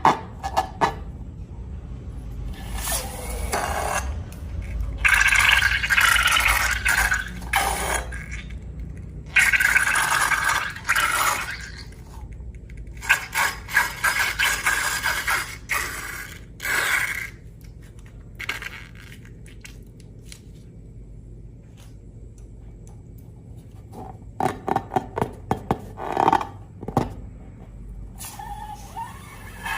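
Slime being worked by hand: bursts of scraping and runs of sticky clicks and crackles, with a quiet stretch before a quick run of clicks near the end.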